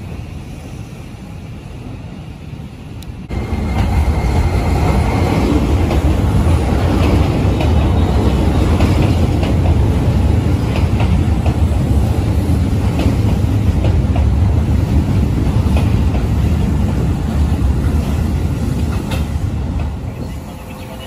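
Keisei 3500 series electric commuter train running close past a platform: a loud, steady rumble of wheels and motors with wheels clattering over the rail joints. It cuts in suddenly a few seconds in, after a quieter stretch of station background, and drops away near the end.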